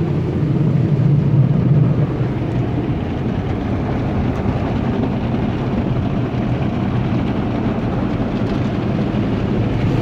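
Automatic soft-cloth tunnel car wash working over the vehicle, heard from inside the cabin: a steady rumbling wash of spray and cloth brushes on the body, a little louder in the first two seconds.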